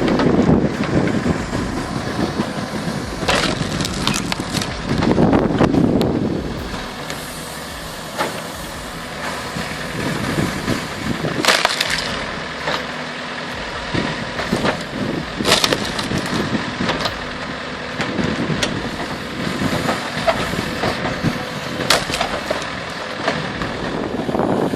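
A wood-splitting machine running steadily, with sharp cracks of logs splitting apart every few seconds.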